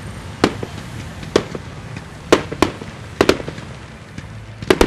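Fireworks going off: about eight sharp bangs at uneven intervals, some in quick pairs, over a steady low rumble.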